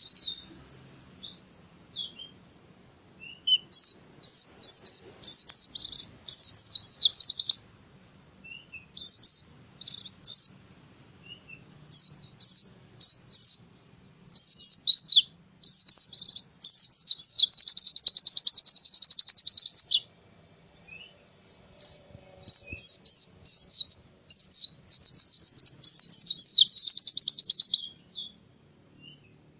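White-eye (pleci) singing loudly and high-pitched: quick, varied chirping phrases broken by short pauses, alternating with long, fast trills of evenly repeated notes that last about three seconds each.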